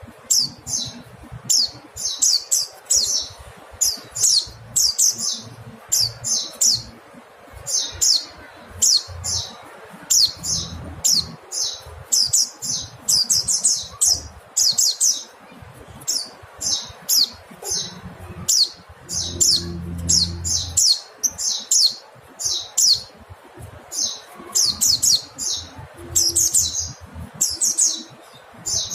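Mountain white-eye (pleci montanus) calling: short clusters of rapid, high chirping notes, about one cluster a second, repeated over and over.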